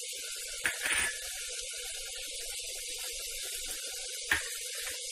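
Onion-tomato masala frying in oil in an aluminium pressure cooker, a steady gentle sizzling hiss as ground spice powders go in. A few light taps come about a second in, and a sharper one near the end.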